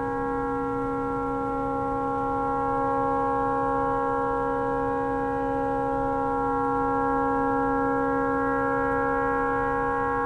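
A tugboat's air horn stuck on, blowing one continuous chord of steady tones without a break: the horn has malfunctioned and cannot be shut off.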